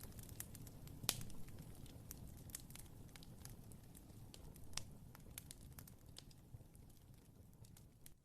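Wood fire crackling in a fireplace: scattered sharp pops over a low rumble, the loudest pop about a second in. It fades out gradually toward the end.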